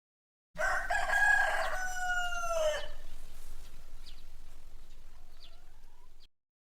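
A rooster crowing once: one long call of about two and a half seconds that drops in pitch at the end, followed by a faint background with a few soft chirps before it cuts off.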